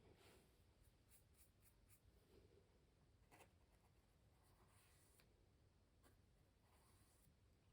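Faint, irregular scratchy strokes of a pencil or brush working on stretched canvas, with a cluster of quick strokes about a second in and one sharper tap about three and a half seconds in.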